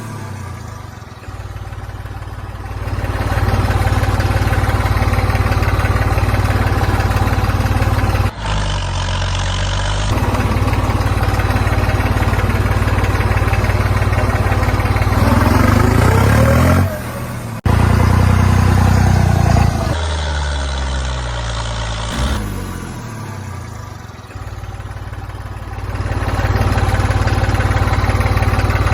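An engine running, mostly idling, with a rise in revs about halfway through. The sound breaks off abruptly and restarts twice.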